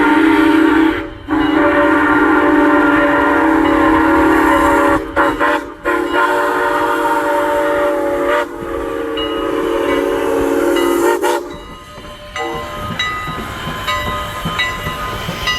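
Steam locomotive whistle blowing a long chime of several steady tones together, broken briefly about a second in and twice around five to six seconds, then cutting off about eleven seconds in. Quieter railway running noise follows.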